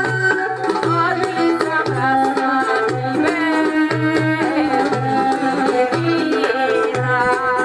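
Bulgarian folk music for a pravo horo: a melody with vibrato played over a steady low drum beat of about two beats a second.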